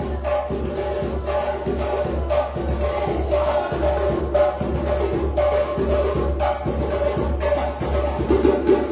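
West African djembe drumming: a fast, dense rhythm of sharp hand strokes, played without pause.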